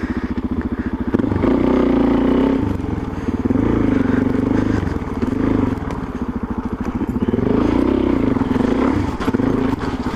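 Motorcycle engine running through a Yoshimura exhaust with its quiet insert fitted, the revs rising and falling several times as the bike is ridden slowly.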